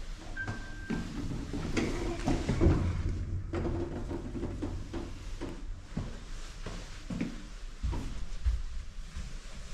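Mitsubishi Elepaq-i elevator in operation: a short high beep about half a second in, then a string of clunks and knocks from the car and its doors over a low hum.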